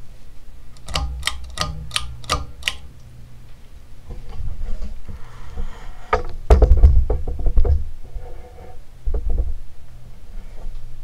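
Steady low hum of a NuTone Decorator ceiling fan's motor. About a second in, a run of about six sharp clicks sounds, then past the middle comes a louder cluster of low thuds and clicks, with a few more shortly after.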